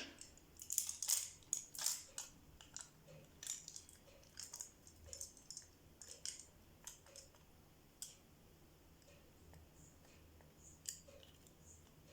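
Irregular light clicks and taps of small hard objects being handled, several close together for the first few seconds, then sparser single clicks.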